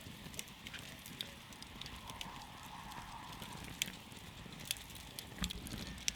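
Wood campfire crackling: irregular sharp pops and snaps over a steady low hiss of burning, with a few louder pops near the end.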